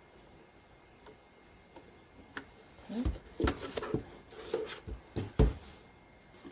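Unboxing handling noise: quiet at first, then from about three seconds in a string of knocks and thumps with some rubbing as packaging and parts are picked up and set down.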